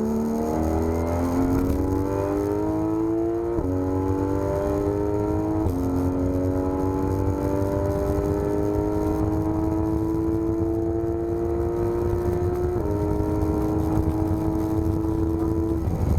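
Porsche 991 GT3 RS's naturally aspirated flat-six accelerating at full throttle, its pitch climbing through each gear with three sudden drops at the upshifts, a little over three and a half seconds in, near six seconds and near thirteen seconds. The last gear holds an even pitch until the engine note falls away near the end.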